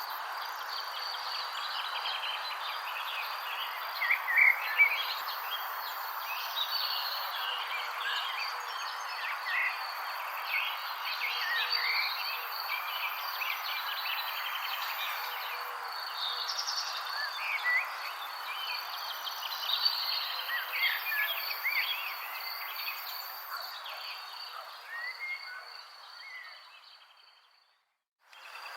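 Birds chirping and calling over a steady insect hum and a continuous high-pitched insect trill. The whole soundscape fades out near the end to a brief silence.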